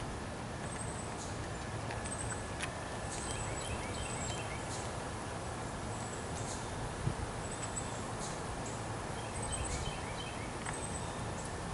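Small birds chirping, with short high calls repeating every second or so, over a steady low outdoor rumble.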